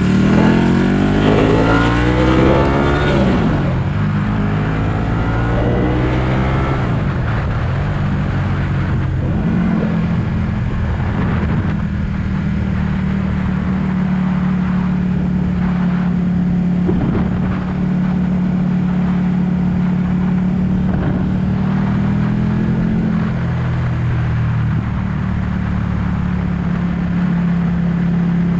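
Ducati 1199 S Panigale's V-twin engine heard from on board: it revs up hard in the first few seconds, drops back, rises and falls once more, then holds a steady cruising note for most of the rest, dipping slightly about two-thirds of the way through.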